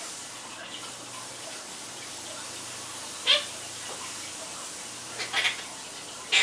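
Quaker parrot (monk parakeet) giving one short squawk about three seconds in and a quick run of chirps near the end, over a steady background hiss.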